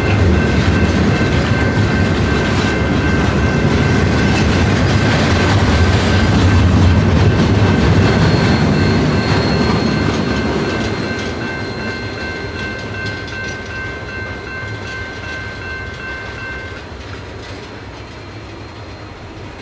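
A train passing on the track: a heavy rumble with wheels clicking over rail joints, growing louder to a peak about a third of the way through, then fading as it moves away. Steady high-pitched ringing tones sound over the rumble and stop near the end.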